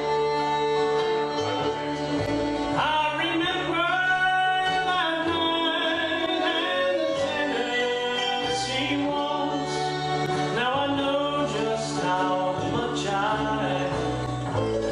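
Bluegrass string band playing live: held tones from fiddle and guitar over double bass, with a vocal line coming in about three seconds in.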